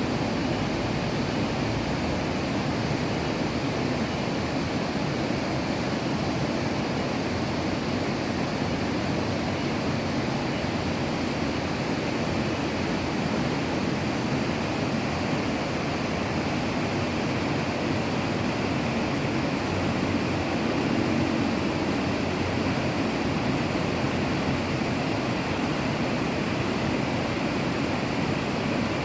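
Steady, even rushing noise that does not change, like running water or wind on the microphone.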